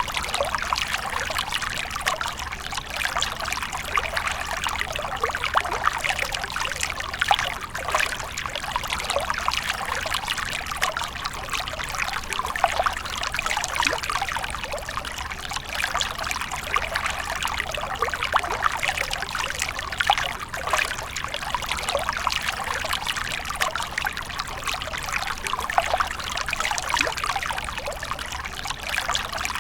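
Fountain water splashing and trickling steadily into a basin, a continuous burble of small splashes.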